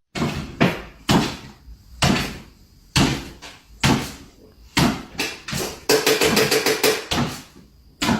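A series of sharp knocks or bangs, about one a second, each dying away briefly, with a quicker run of rattling knocks around six to seven seconds in.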